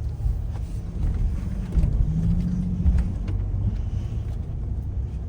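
Car engine and road rumble heard from inside the cabin, with a couple of thumps about two and three seconds in.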